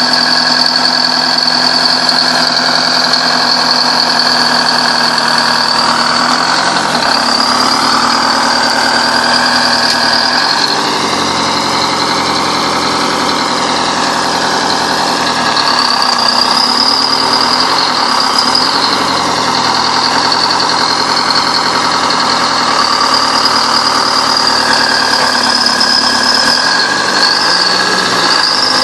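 Bulldozer engine running steadily under varying load, its pitch shifting slightly now and then, with a high-pitched whine that wavers up and down throughout.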